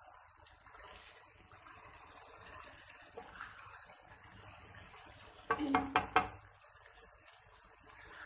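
Kaleji (liver) curry frying in a pot with a faint steady sizzle while a spoon stirs and scrapes it, with a louder clatter of the spoon against the pot about five and a half seconds in. This is the bhunai stage on a raised flame, cooking the masala down until the oil separates.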